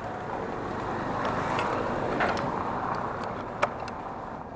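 A road vehicle passing by: its noise swells, peaks and fades away over about three seconds, with a few faint clicks near the end.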